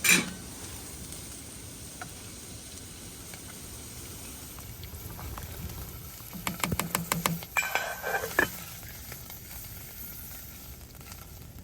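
A pot of chili sizzling and simmering on a wood stove, a steady low hiss, with a quick run of clicks and a short clatter a little past the middle, as it is stirred.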